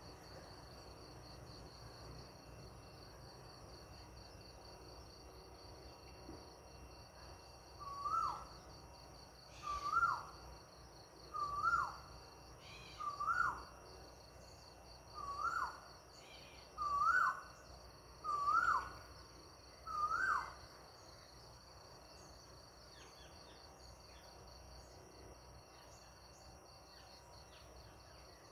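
A bird calling eight times, each a short whistled note that rises and then drops, about one every second and a half through the middle of the stretch. Behind it, crickets trill steadily in a high-pitched pulsing chorus.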